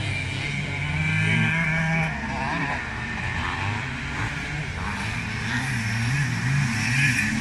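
Several classic motocross motorcycle engines running and revving during a race, their pitches rising and falling as the riders open and close the throttle.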